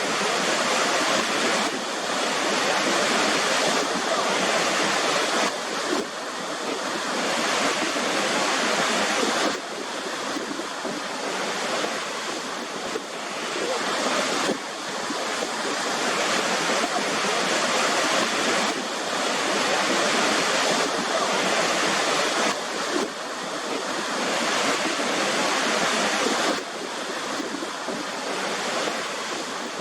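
Waterfall, a steady rush of falling water. Its level jumps up or down abruptly every few seconds.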